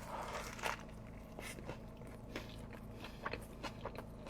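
Faint close-up eating sounds: soft biting and chewing with scattered small clicks and crunches.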